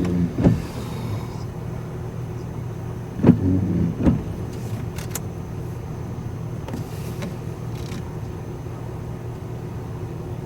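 Steady engine and road noise inside a moving car, with a few sharp knocks near the start and again about three and four seconds in.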